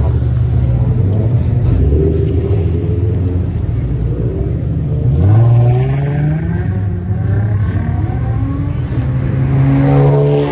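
Car engines running with a deep rumble. One revs up about five seconds in, and again near the end.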